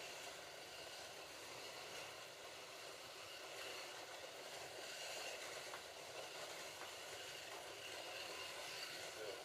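Slot cars lapping a track: a faint, steady whir of small electric motors and wheels running on the track.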